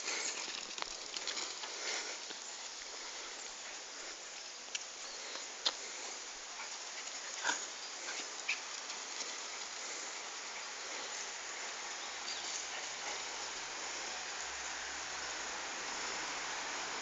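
Two dogs playing together, their dog noises over a steady hiss, with a few short sharp sounds in the middle.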